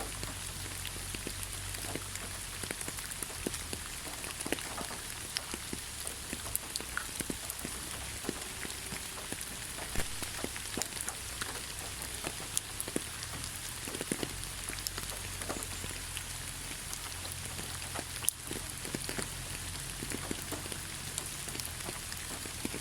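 Gentle rain falling on leaves: a steady hiss dotted with many separate drops hitting at irregular moments.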